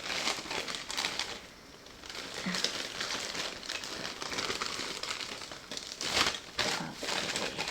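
Packaging crinkling and rustling as items are handled and put away, with a few sharper crackles about six seconds in.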